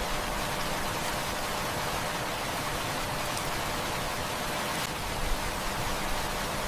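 Heavy rain falling steadily, a dense even hiss, with a few faint pops and ticks scattered through it.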